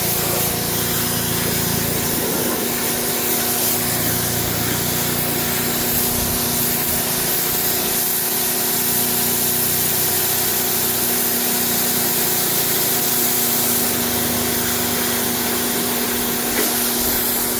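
Electric pressure washer running steadily with a constant motor hum, its jet of plain water hissing against car carpet.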